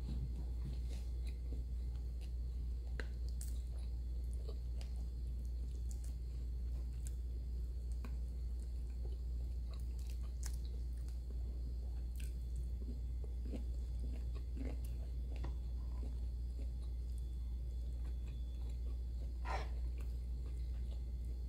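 A person chewing and biting food, with scattered small clicks, over a steady low hum.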